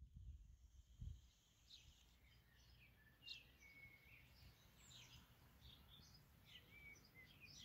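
Faint outdoor birdsong: a string of short chirps and quick falling notes from small birds, over a low rumble, with a thump about a second in.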